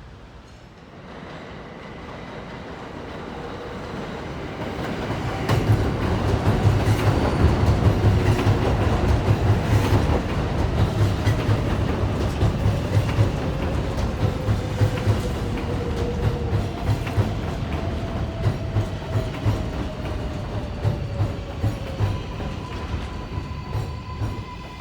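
Kawasaki R188 subway train pulling into the station: the wheels clack in a quick, even rhythm over the rail joints as it grows louder, and the motor whine falls in pitch as the train slows. A steady high tone comes in near the end.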